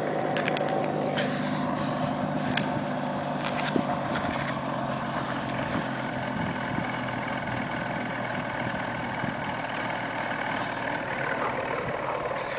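2006 Ford Mustang's 4.0-litre V6 idling steadily, its exhaust running through Mustang GT take-off mufflers.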